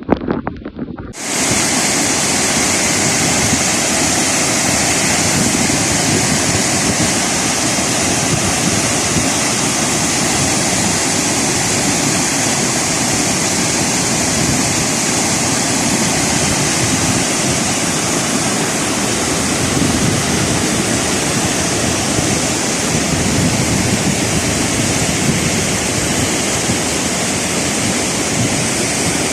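Floodwater rushing loudly and steadily in a wadi torrent, starting about a second in.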